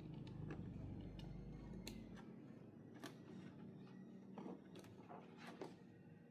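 Faint, scattered light clicks and taps, irregular and a second or so apart, over a low hum that stops about two seconds in.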